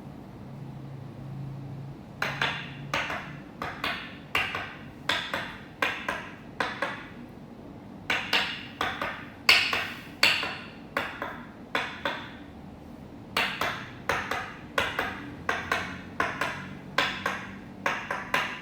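Toksen massage: a wooden mallet tapping a wooden peg, a run of sharp knocks about two a second that starts about two seconds in, with short breaks near eight and thirteen seconds in.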